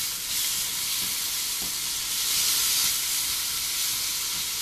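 Onion, tomato and spice masala sizzling in hot oil in a nonstick pan while a wooden spatula stirs it, a steady hiss.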